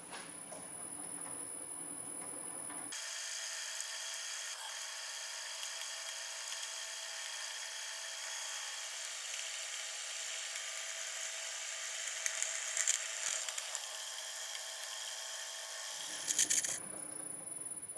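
A small power tool running steadily, starting about three seconds in and stopping about three seconds before the end, with a high, even whine.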